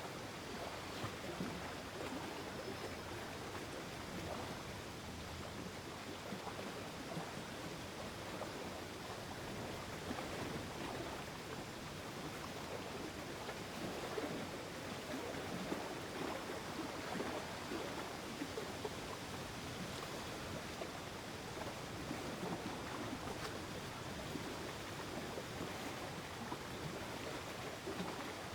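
Gentle, steady water ambience of a mountain lake: small water movements continuing at an even level without a break.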